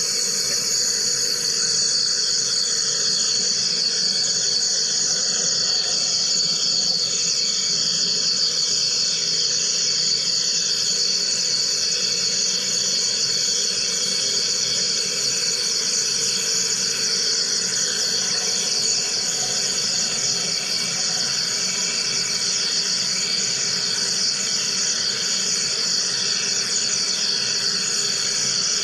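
Wire EDM machine running, a steady high-pitched hiss that does not change.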